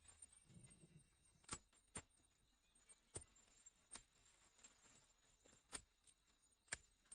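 Near silence, broken by about six faint, sharp clicks or taps at uneven intervals.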